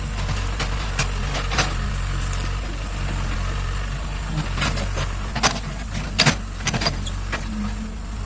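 Excavator's diesel engine running steadily, with a few sharp knocks and clanks, bunched together in the second half.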